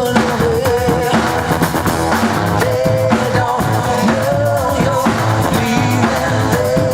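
Rock band recording playing: full band with a long, wavering held melody line over it.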